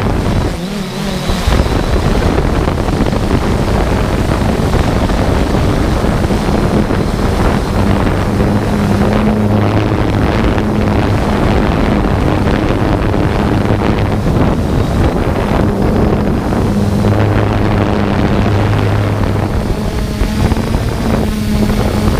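3DR Solo quadcopter's motors and propellers humming steadily, with a low hum that swells and eases every few seconds, over wind noise on the microphone.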